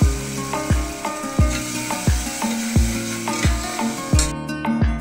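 Background music with a steady beat, about one and a half beats a second. Under it, ground tomato puree sizzles and is stirred as it fries in the onion-ginger-garlic masala, and the sizzle stops abruptly about four seconds in.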